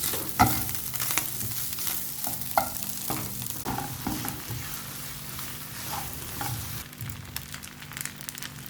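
Food frying and sizzling in a pan, with a utensil knocking and scraping against the pan several times in the first half.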